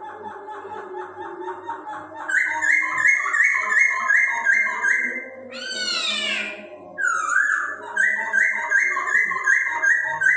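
Chinese hwamei (Poksay Hongkong) singing: fast runs of repeated clear whistled notes, with a loud downward-sweeping note about six seconds in.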